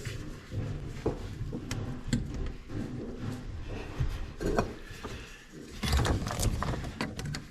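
Irregular knocks, clicks and rubbing, as of parts and tools being handled at close range.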